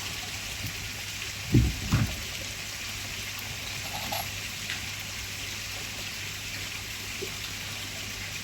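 Steady trickle of running water, with two dull thumps in quick succession about a second and a half in.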